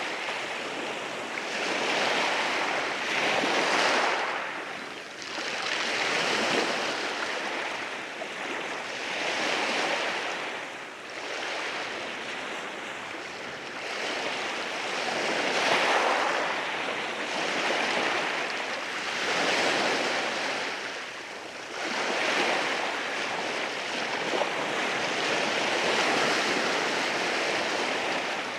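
Ocean waves breaking and washing in over rocks, the surf swelling and ebbing every few seconds, with some wind.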